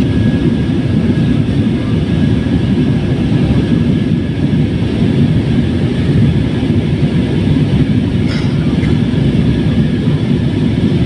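Steady engine and airflow noise of an airliner as heard inside the passenger cabin, a loud low rumble with a thin steady whine above it.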